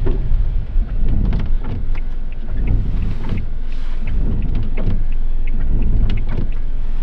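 Steady low rumble heard from inside a car held up in a snowstorm, with scattered light ticks at irregular times, like precipitation striking the car.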